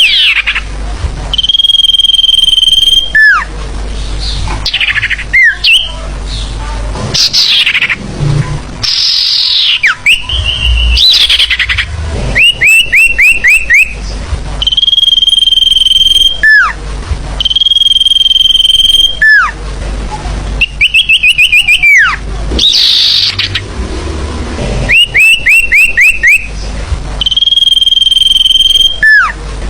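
Bird-lure recording of forest bird calls: a long, steady, high whistle held for about a second and a half, repeating every few seconds, alternating with quick runs of five or six short falling chirps and single downward-swooping notes, in a looping cycle.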